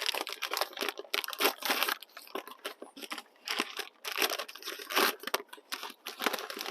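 A fork stirring and fluffing stuffing in a pot: a quick run of scratchy, crunchy scraping strokes with a few brief pauses.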